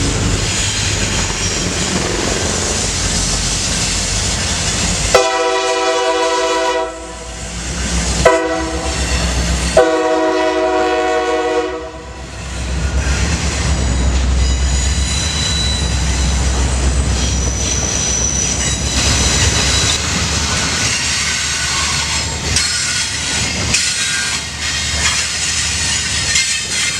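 Freight train's diesel locomotive rumbling past and sounding its horn three times, a long blast, a short one and a long one, about five to twelve seconds in. The cars then keep rolling by with wheel clatter.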